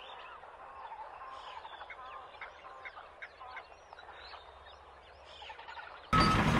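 Birds chirping faintly: many short calls. About six seconds in, a much louder sound with a steady high tone starts abruptly.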